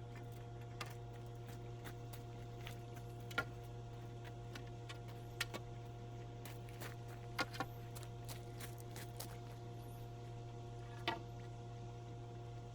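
A steady low hum with a handful of short, sharp clicks scattered through it, a few seconds apart.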